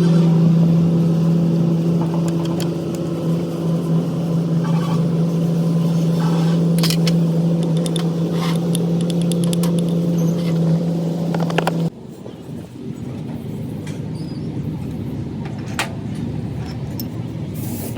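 A machine running with a steady hum that cuts off abruptly about twelve seconds in, leaving a quieter, noisier background with a few sharp clicks.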